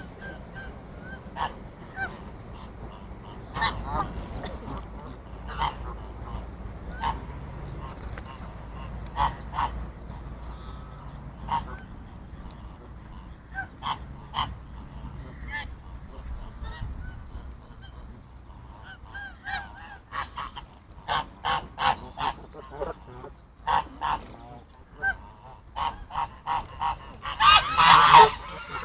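Geese honking, short calls every second or two that come thicker from about two-thirds of the way in and build into a loud burst of overlapping honks near the end.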